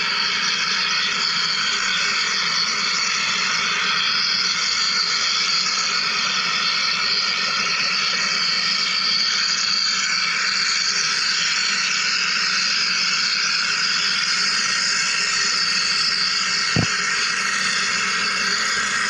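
Wire EDM machine running: a steady hiss with a low hum underneath, and a single short click near the end.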